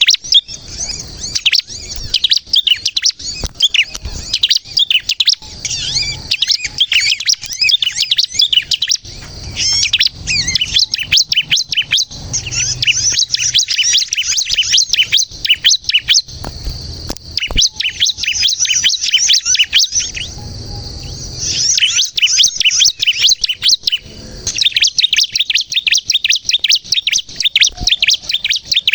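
Ciblek kristal (bar-winged prinia) singing energetically in a fast, unbroken run of high chirps and trills, with a short pause about twenty seconds in.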